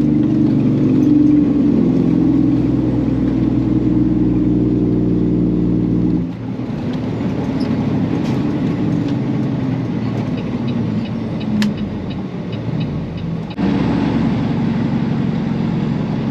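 Peterbilt semi truck's diesel engine running steadily. About six seconds in the sound changes abruptly to a rougher engine-and-road noise with a few faint, regular ticks, and the steady engine sound returns abruptly near the end.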